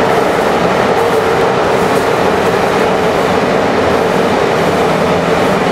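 Passenger train running, heard from inside the coach: a steady rumble of the wheels on the rails with a constant hum.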